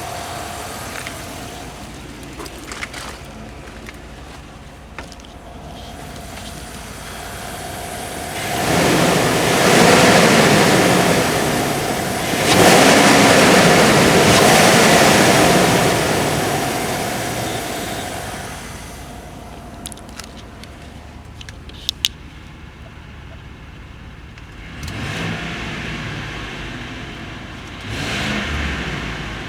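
Chevrolet 6.6 L L8T gas V8 running, idling and then revved: two long revs starting about nine and twelve seconds in, a few sharp clicks, then two short blips of the throttle near the end.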